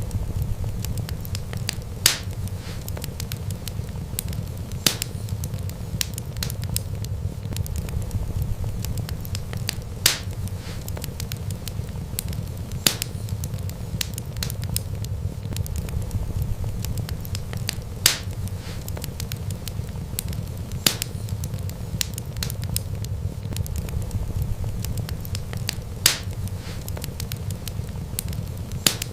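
Wood fire burning with a steady low rumble and fine crackle, broken every few seconds by a single sharp pop.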